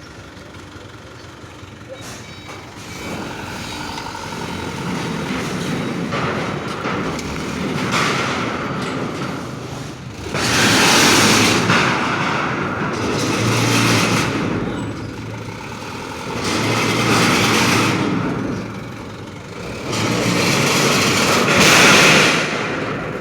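Heavy truck running while steel wide-flange beams are unloaded from it. A rumble builds steadily, then four loud, noisy surges of about two seconds each come in the second half.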